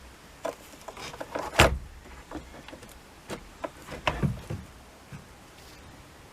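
Irregular sharp clicks and knocks, the loudest about a second and a half in and another cluster around four seconds in.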